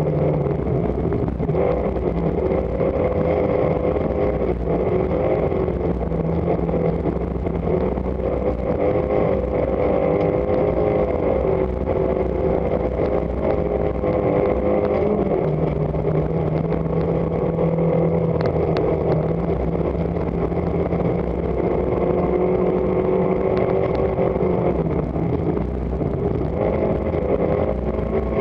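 Rally car engine running hard under load, heard from inside the cabin at speed, with steady road and tyre noise underneath. Its pitch shifts in steps a few times: down about a second in and again around the middle, then up near the end.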